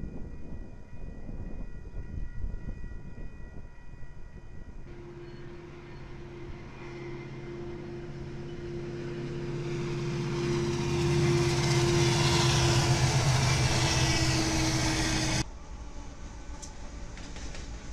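Diesel locomotives leading a freight train toward the microphone: a steady engine drone with a growing rush of wheel and rail noise that swells to its loudest, then cuts off abruptly about three-quarters of the way through. Before and after it, a quieter low rumble of more distant trains.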